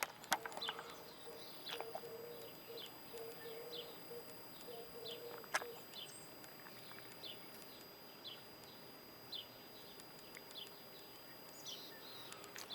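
A small bird chirping over and over, short high down-slurred chirps about one a second. Faint low dove cooing runs under it through the first half.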